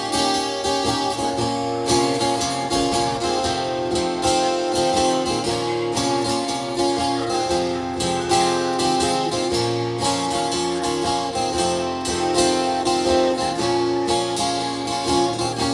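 Instrumental break of a band's original rock song, led by strummed guitar with bass and a steady beat, no vocals.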